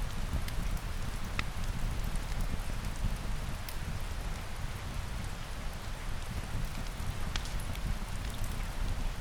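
Steady rain falling, with a deep low rumble beneath it and a few sharp clicks scattered through.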